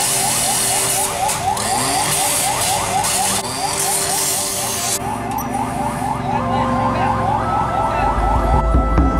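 Emergency vehicle siren in fast yelp mode: quick rising sweeps, about four or five a second, with a second steady siren tone joining after about seven seconds. A broad hiss underneath cuts off suddenly about five seconds in, and a low engine rumble rises near the end.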